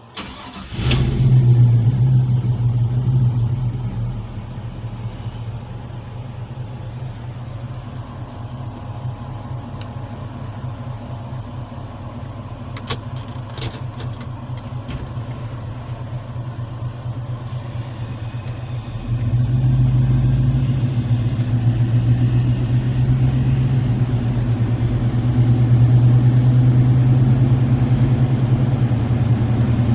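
Chevrolet 6.2-litre Vortec V8 running steadily. It comes in suddenly about a second in, louder at first, eases to a lower idle-like level about four seconds in, and gets louder again from about 19 seconds on.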